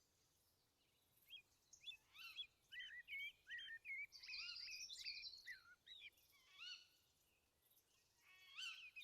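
Songbirds calling: a scattered run of short chirps and quick whistled glides, faint, starting about a second in and thinning out past the middle, with a few more calls near the end.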